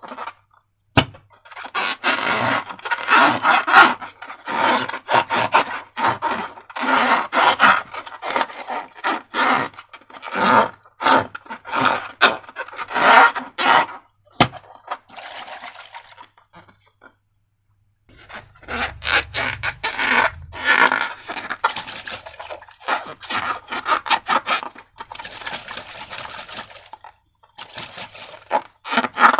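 Hands working slime and transparent balloons, with dense crackling, squelching and scraping in two long stretches and a brief silent pause about two-thirds of the way through.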